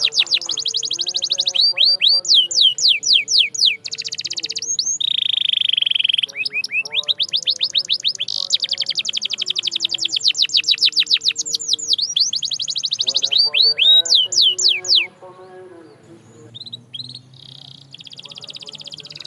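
Canary singing long rolling trills of rapid, downward-sweeping notes, some rolls fast and some slower and wider, with one held whistled note near the middle. The song breaks off about three-quarters of the way through, leaving only a few faint chirps.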